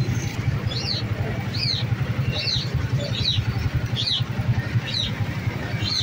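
A caged bird calling in about seven short high chirps, evenly spaced at roughly one every 0.8 seconds, over a steady low rumble.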